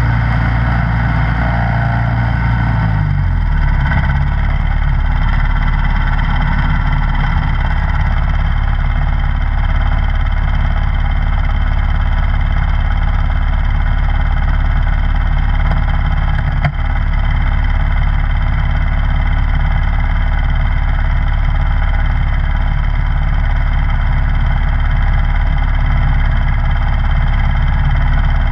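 Snowblower engine running continuously; its note drops a few seconds in and then holds steady. One brief click about halfway through.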